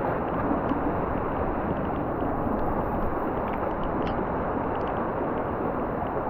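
Steady rush of river rapids, muffled, with a few faint ticks.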